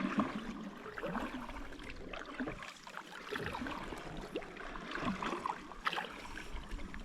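Water splashing and trickling in small irregular bursts, the sound of a paddle moving a small boat through calm water.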